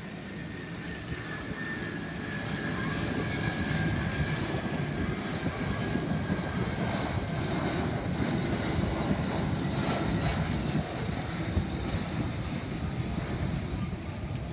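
Jet airliner at takeoff power climbing out just after rotation: a rumble with a whine that swells over the first few seconds, stays loudest through the middle and eases near the end.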